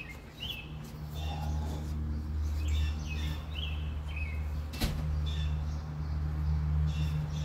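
Songbirds chirping, short calls repeated again and again, over a steady low hum that comes up about a second in and is the loudest thing. There is a single sharp knock near the middle.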